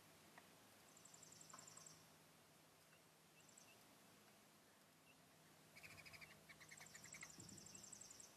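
Faint high-pitched trilling animal calls, coming in bursts about a second long, with a lower, rapidly pulsed burst of calls near the end.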